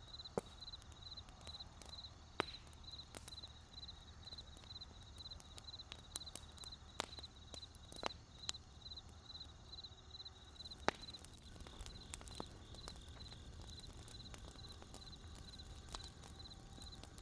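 Wood fire crackling, with irregular sharp pops and snaps over a low rumble. Behind it a steady high chirping repeats about three times a second.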